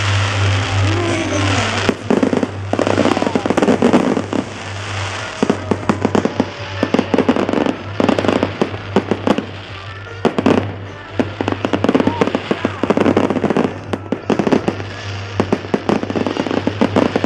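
Fireworks display going off in rapid volleys of bangs and crackles, a fresh cluster every couple of seconds. Music from the display's sound system plays faintly underneath.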